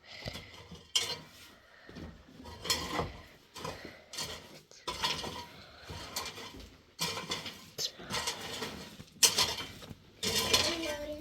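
Metal dishes and utensils clattering and clinking, in irregular knocks and scrapes about once a second.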